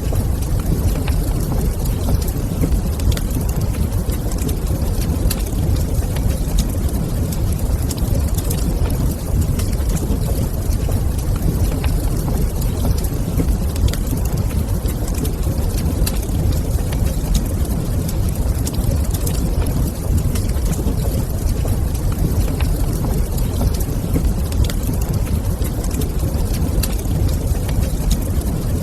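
Wood fire crackling in a fireplace, scattered small crackles over a steady low rumble of the flames.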